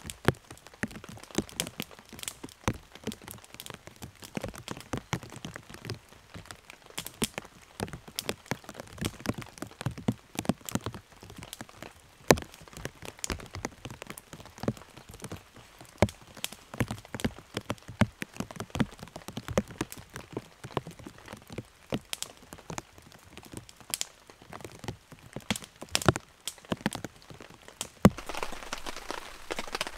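Rain falling in a forest, heard as a light hiss dotted with many sharp, irregular drips and taps. Near the end a denser, steadier hiss sets in.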